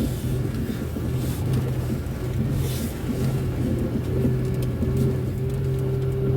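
Car driving: a steady low engine hum with road noise.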